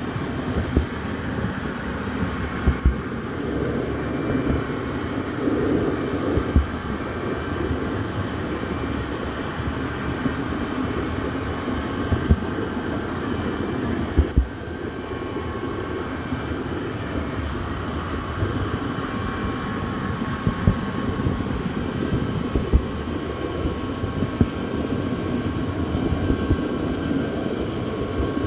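A train running with a steady rumble, broken by a scattering of short sharp knocks.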